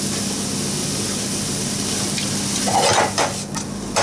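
Chopped turnip leaves sizzling in a frying pan as they are stir-fried down in soy sauce and mirin, a steady hiss. A few short clicks come near the end as the chopsticks stir the leaves.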